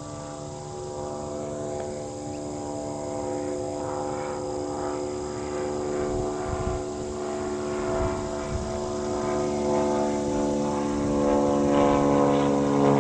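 Airplane engines humming with a steady, many-toned drone that grows louder as the aircraft approaches.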